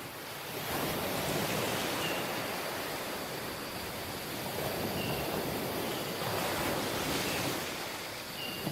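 Sea waves washing onto a tropical beach, the surf swelling about a second in and again later. Faint short high chirps come every two to three seconds.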